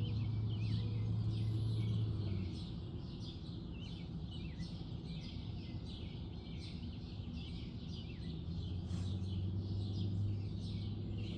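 Many small birds chirping and singing over a steady low hum, the hum louder for the first couple of seconds and again near the end.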